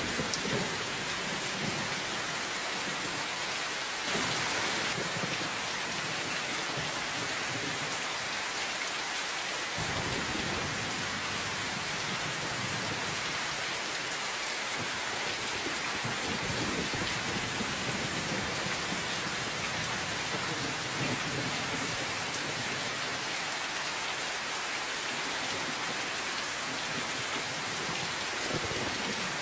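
Steady rain falling, with low rolls of distant thunder rumbling underneath, one starting about ten seconds in.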